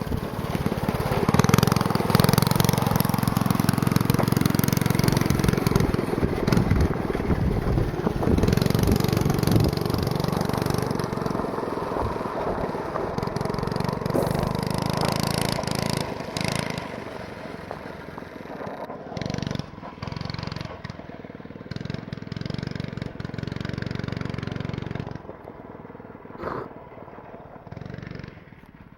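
Go-kart's small stock 4 hp single-cylinder engine running, loud at first and then fading steadily over the second half as the kart moves away.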